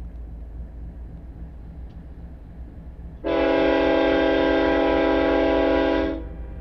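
Diesel freight locomotive's air horn sounding one long blast of about three seconds, a chord of several tones at once. It starts abruptly a few seconds in and cuts off sharply, over a low steady rumble.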